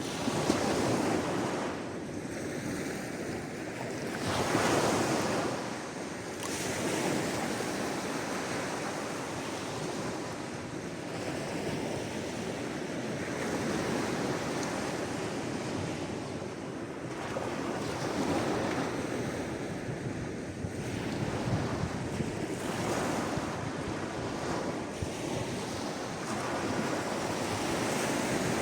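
Sea waves washing onto a shore, a steady wash that swells and eases every few seconds.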